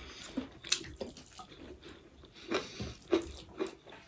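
Close-miked chewing and wet mouth smacks of someone eating, with a handful of soft, irregular clicks.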